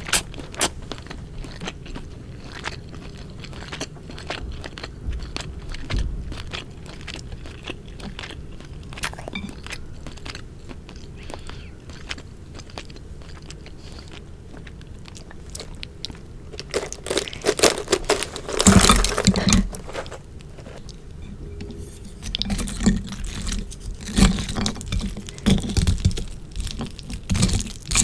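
Close-miked eating of sukiyaki with glass noodles: chewing with wet mouth clicks and crunching. The eating grows denser and louder about two-thirds of the way through and again near the end.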